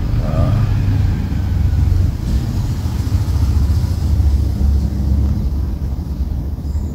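Low, steady rumble of motor vehicle engines running nearby, swelling and easing a little over the few seconds.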